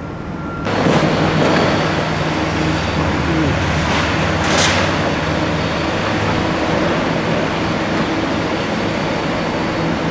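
Heavy demolition machinery's engine running steadily, starting suddenly about two thirds of a second in, with a short hiss about four and a half seconds in.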